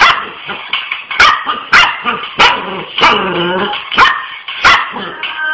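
Dog barking repeatedly, about seven sharp barks, with one longer drawn-out note in the middle.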